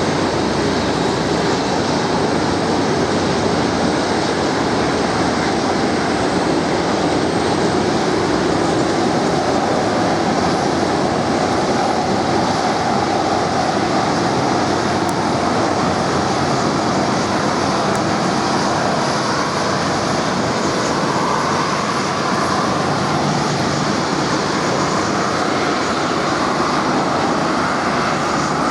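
Jet engines of an Airbus A330 running at taxi power as the airliner taxis, a steady loud roar. In the second half a whine within the roar slowly rises in pitch.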